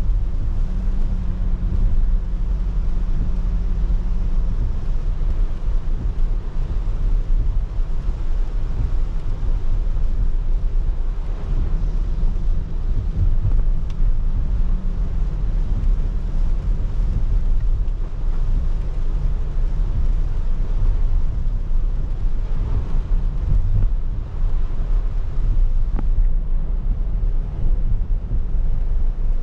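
Car driving on a wet road in the rain, heard from inside the car: a steady low rumble of road and tyre noise with a light hiss over it. A faint engine hum rises above the rumble twice.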